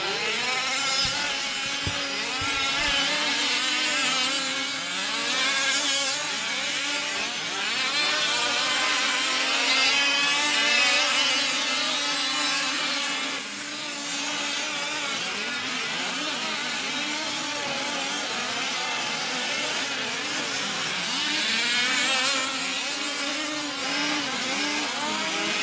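Several 1/5-scale gas RC off-road trucks racing, their small two-stroke engines buzzing and revving together, pitch rising and falling as they throttle through the track.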